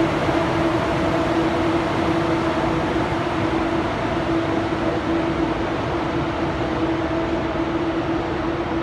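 Train running with a steady rumbling hiss and a constant mid-pitched hum.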